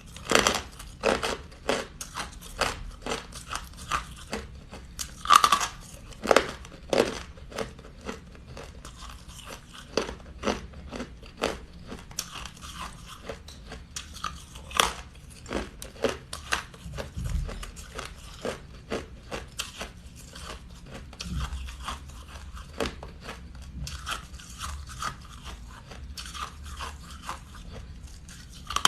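Close-up biting and chewing of crunchy ice: a steady run of sharp, irregular crunches, several in a second, with some louder bites standing out.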